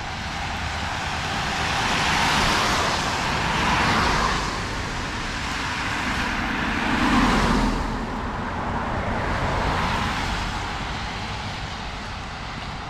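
Cars passing one after another on a wet road, about four in turn, their tyres hissing as each comes and goes; the loudest passes about seven seconds in with a deeper rumble.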